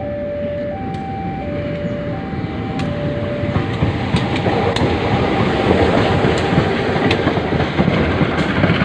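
An electronic two-tone warning signal alternates high and low, each tone lasting under a second, and stops about three and a half seconds in. A train's rumble then builds and grows louder, with sharp clicks of wheels over the rail joints.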